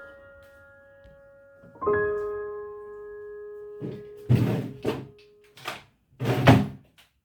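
Soft piano notes ringing out and fading, with a new chord about two seconds in. From about four seconds in comes a series of dull thumps and knocks, the loudest near the end.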